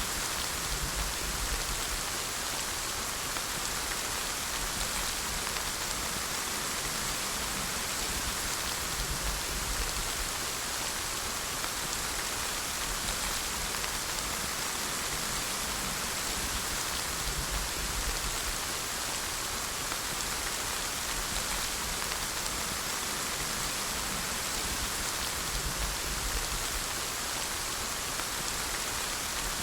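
Steady rainfall, an even hiss of rain falling on a surface, with faint low rumbles coming and going underneath.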